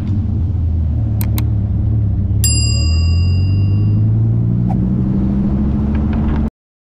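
Car engine running steadily while driving, its pitch rising slightly in the middle. Over it, two quick mouse-click sound effects about a second in and a bell-like ding about two and a half seconds in, from a like-and-subscribe button animation. All sound cuts off abruptly near the end.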